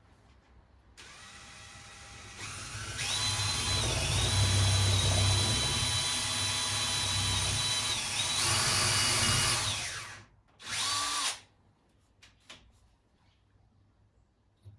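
Cordless power drill boring a hole: the motor starts softly about a second in, then runs at full speed with a steady high whine for about seven seconds before winding down, followed by one short second burst.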